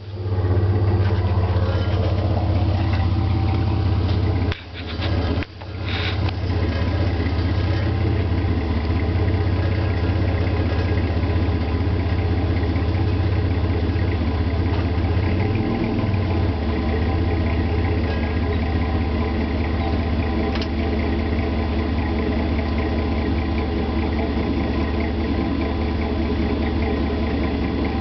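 Warmed-up 4.3-liter Vortec V6 of a 2003 Chevy S10 idling steadily through a Flowmaster 40 series dual exhaust with the resonator removed, a deep low rumble. The sound cuts out briefly twice about five seconds in.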